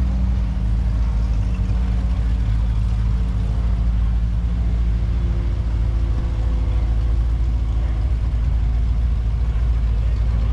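Engine running steadily with a deep, continuous rumble. Faint humming tones shift in pitch about halfway through.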